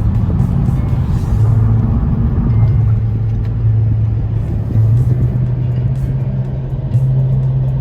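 Steady road and engine drone inside a moving car, with music playing from the car stereo.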